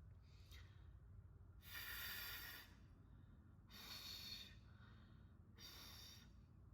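Three faint, breathy hisses of a voiceless /f/ sound, each under a second long: air pushed between the upper teeth and the lower lip.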